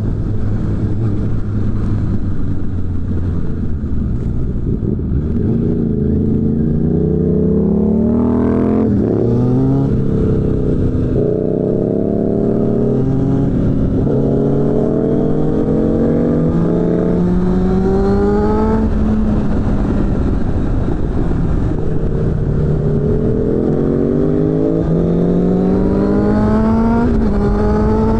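Suzuki GSF600 Bandit's inline-four engine through a BOS aftermarket exhaust. It runs low and steady at first, then accelerates through the gears: the pitch climbs and falls back at each upshift, again and again. A steadier stretch in the middle is followed by another run up through the gears near the end.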